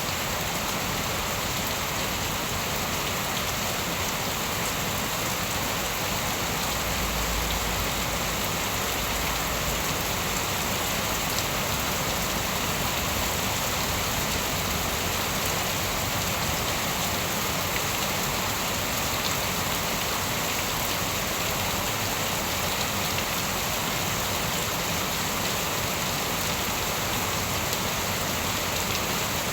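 Steady heavy rain falling and splashing on surfaces, a dense even hiss, with a brief deep rumble about seven seconds in.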